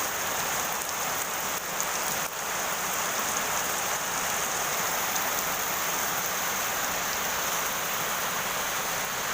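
Very heavy rain pouring down in a dense, steady hiss, with a few faint taps of drops about two seconds in.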